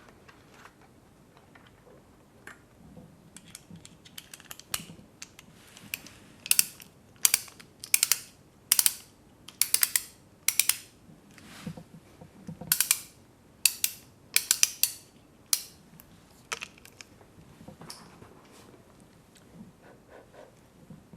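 Close-up, crisp mechanical clicking from tools or hard objects being worked in a mock robot repair: short bursts of rapid clicks, like a ratchet, coming irregularly about once a second and loudest in the middle, then thinning out.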